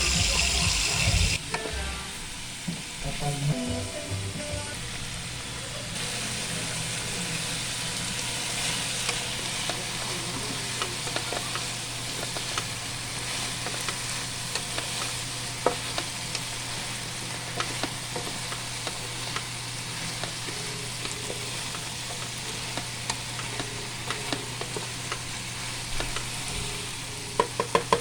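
Food sizzling in a frying pan, with scattered clicks of a utensil stirring against the pan and a low steady hum underneath. A louder rushing noise stops about a second in, and a quick run of taps comes near the end.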